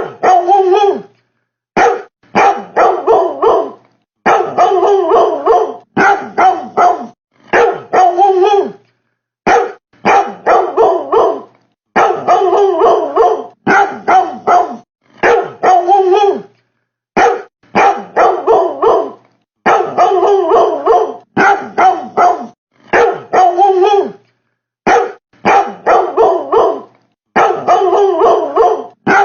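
Barking: loud, short barks in quick runs of two to five, with brief silences between the runs, repeating steadily.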